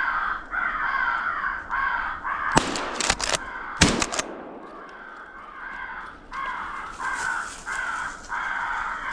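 Crows cawing over and over, with a quick volley of several gunshots about two and a half to four seconds in.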